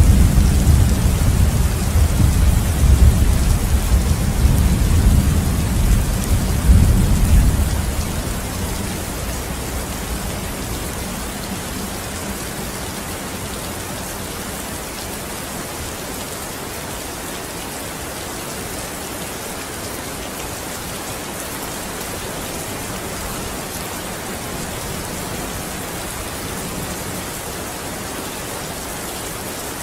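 Steady heavy rain with a low rumble of thunder that rolls for the first several seconds and dies away about eight seconds in, leaving the even hiss of the rain.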